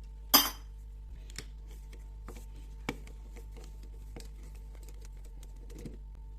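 Small metal parts and hand tools handled on a workbench: one sharp clank about a third of a second in, then scattered light clicks and taps, with a single clearer tap near the middle.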